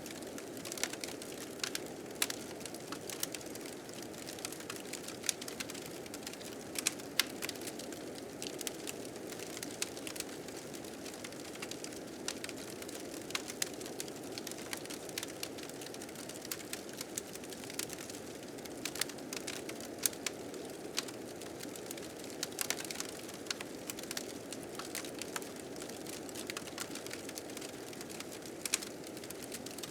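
Wood fire crackling with frequent irregular sharp pops, over a steady low rush of blizzard wind.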